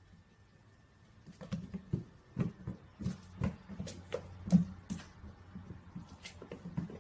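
An irregular series of light taps and knocks, starting about a second in and going on unevenly, a few per second.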